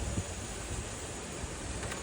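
Wind buffeting the microphone: a steady rushing hiss with uneven low rumbles.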